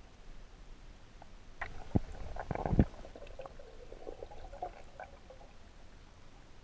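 Water gurgling and bubbling, with a few sharp knocks about two to three seconds in, then scattered small bubbly blips that die away.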